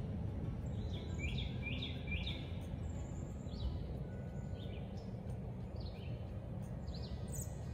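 Songbirds chirping in the trees: short high chirps, one or two a second, over a steady low background rumble.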